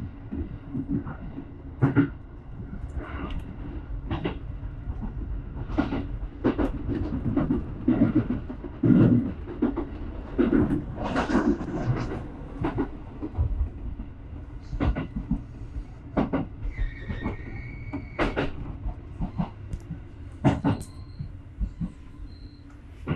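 Electric commuter train running on the JR Nara Line, heard from the cab: a steady rumble with irregular clacks and knocks of the wheels on the rails, and a brief high squeal about seventeen seconds in.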